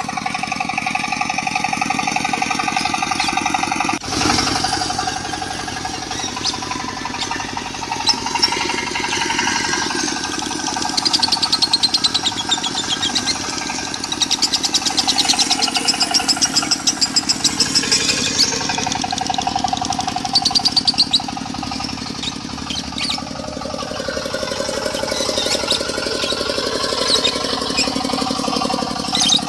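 Diesel engine running with a fast, even chugging, mixed with lovebirds chattering in long, rapid 'konslet' trills. It is a masteran track, a recording played to lovebirds to draw out their song.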